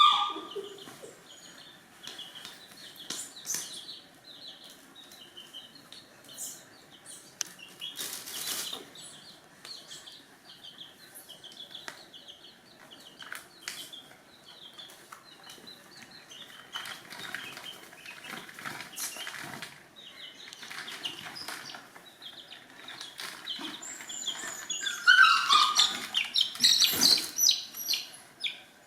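Chickens chirping: many short high chirps keep coming, over scattered rustles and knocks. A louder flurry of chirps comes near the end.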